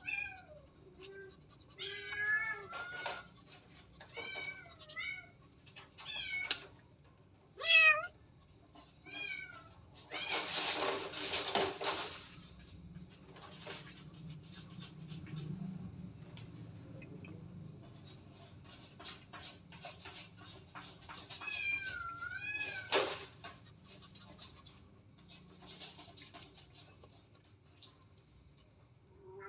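Domestic cat meowing: a string of short meows, each bending up and down in pitch, over the first ten seconds, then a burst of rustling noise, and another meow about 22 seconds in.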